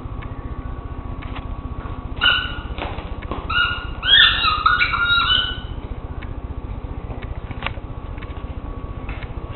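Squeaky dog toy squeaking in short high-pitched runs: a brief pair about two seconds in, then a longer cluster of squeaks around the middle, as the dog works the squeaker.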